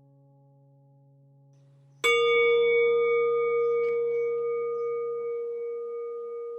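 A singing bowl struck once about two seconds in, ringing with several clear steady tones that slowly fade. Before the strike, a faint low hum dies away.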